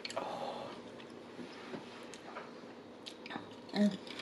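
A person chewing food close to the microphone, with moist mouth clicks and squishes, and a brief low hum near the end.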